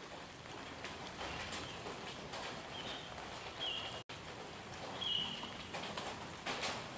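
A few short, high bird chirps over steady outdoor background noise, with scattered light clicks and knocks.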